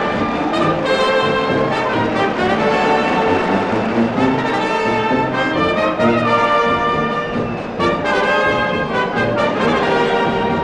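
Spanish brass band playing a pasodoble, with trumpets and trombones carrying the melody over a steady march beat, from an old vinyl record.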